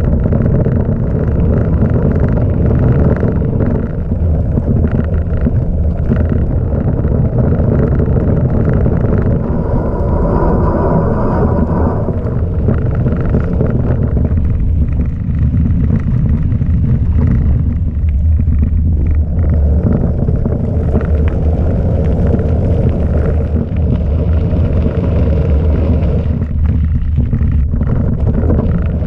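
Wind buffeting the microphone over a steady low rumble of mountain bike tyres rolling on gravel.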